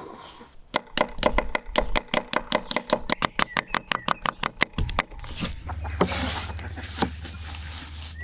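A knife chopping fast and evenly on a wooden cutting board, about six strokes a second for some four seconds, then stopping; a few single knocks follow.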